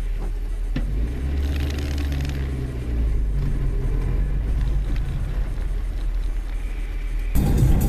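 Steady rumble of a car driving, engine and road noise, with a couple of short clicks near the start. About seven seconds in it cuts abruptly to loud electronic dance music.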